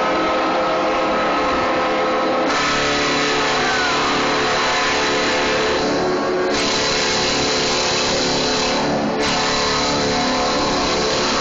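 Loud, steady engine noise with several held tones underneath and a rushing hiss that swells up about two seconds in and twice more later.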